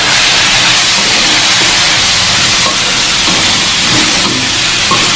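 Tempeh and long beans sizzling as they stir-fry in an aluminium wok, a loud, steady hiss, with a few faint scrapes of the spatula against the pan.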